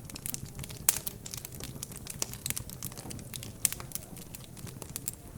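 Wood fire crackling in a fireplace: irregular pops and snaps, the sharpest about a second in and another near four seconds, over a low steady rumble.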